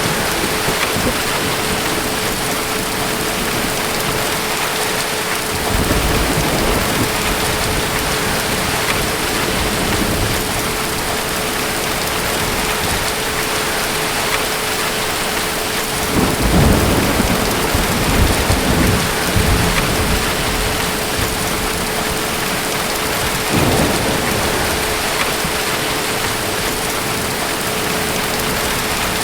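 Steady heavy rain with thunder rumbling in the distance: a rumble about six seconds in, a longer, louder roll a little past the middle, and a short one near the end. A faint steady hum runs under the rain.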